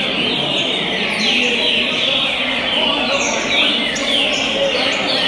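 Green-winged saltators (trinca-ferro) singing: loud, repeated downward-sweeping whistled phrases that overlap one another without a break.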